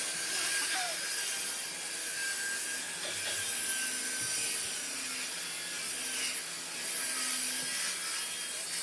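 A tool working wood with a steady, rasping, sawing-like noise.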